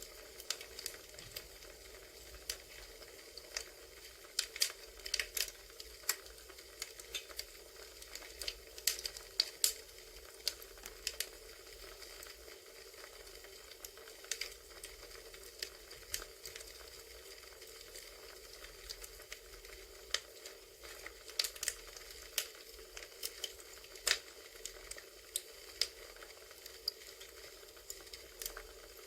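Campfire crackling: irregular pops and snaps of burning firewood over a steady faint hiss.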